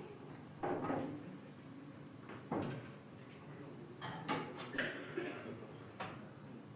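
Pool balls clacking during eight-ball play: several sharp knocks of cue ball and object balls, a few bunched together about four to five seconds in and a last one near the end.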